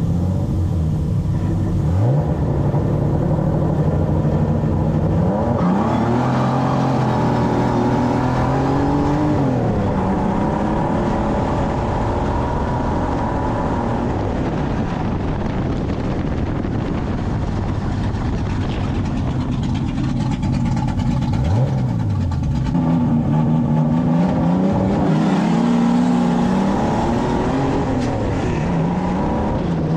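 Racing stock car's engine heard from on board, revving up and falling back again and again through the laps, over a constant rush of noise.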